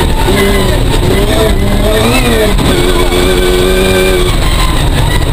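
Ford Focus competition car's engine heard from inside the stripped cabin under load, its note holding steady, briefly rising and falling about two seconds in and dropping as the throttle comes off near the end, over a constant low rumble of tyres and bodywork on rough ground.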